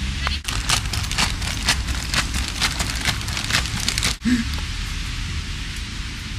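Rain falling steadily, with many sharp drips or splats landing on a surface over the first four seconds.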